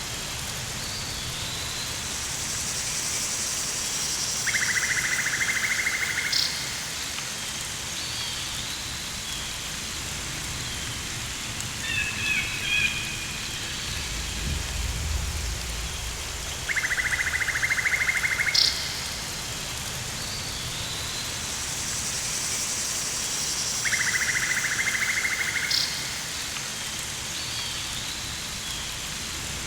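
Rainforest ambience: a steady hiss of rain, with a rapidly pulsing trill of about a second and a half from an insect or frog that comes three times, a few short chirps around the middle, and a soft low rumble partway through.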